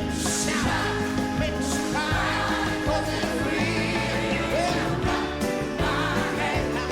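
Worship song: a band playing with singing voices over a steady drum beat.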